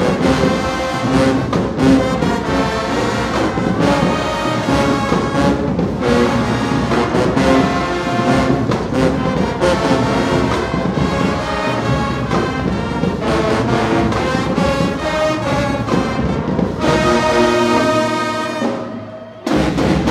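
High school marching band brass section playing a loud held chord passage with drums, the music fading out about a second before the end, followed by a short burst of crowd noise.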